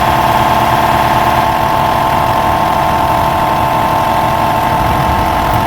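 Air compressor running loudly and steadily, with a constant high hum over a rushing noise.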